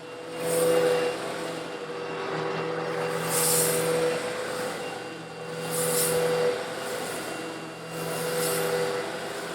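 Eureka vacuum cleaner running with a steady motor hum, sucking up coarse stone granules slightly larger than sand. Every two or three seconds a hissing rattle swells up as a sweep of the nozzle pulls in a batch of granules.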